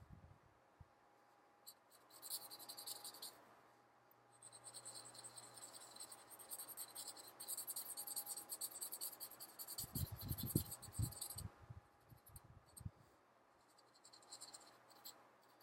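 Felt-tip marker scratching across a paper card in coloring strokes, in stretches of several seconds with short pauses between. A few low bumps of handling come a little after the middle.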